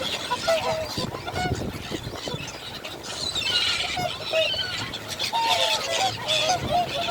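A large flock of birds calling over one another as they crowd to feed: many short overlapping calls, with higher chirps above them.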